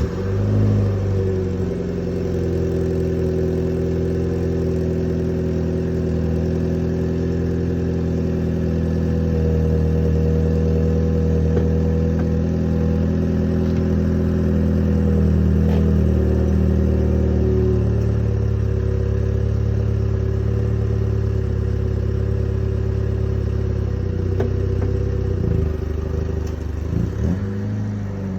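Mini Cooper S F56's turbocharged four-cylinder engine running at a fast cold-start idle through its stock exhaust in sport mode, just after starting. The idle note holds steady, shifts a couple of times as the revs settle, and wavers briefly near the end.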